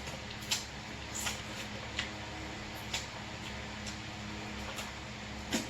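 Close-miked chewing of corn on the cob: sharp wet mouth smacks about once a second over a steady low hum, the loudest near the end.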